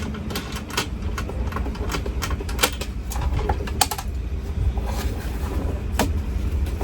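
Irregular sharp clicks and knocks of hand tools and plastic trim as a door pocket is worked loose from a Mercedes truck's inside door panel, busiest in the first few seconds, over a steady low rumble.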